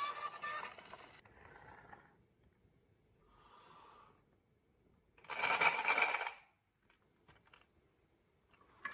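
Marbles rolling and clacking along a wooden marble run, in separate bursts, the loudest about halfway through, with a few light clicks after it. At the very start the toy police car's electronic siren is dying away.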